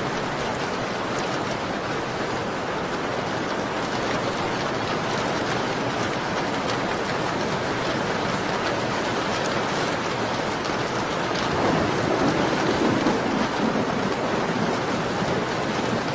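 Steady rain pattering on a window, with scattered sharp crackles from a fireplace. About twelve seconds in, a low swell rises for a couple of seconds, like a distant rumble of thunder, then fades back into the rain.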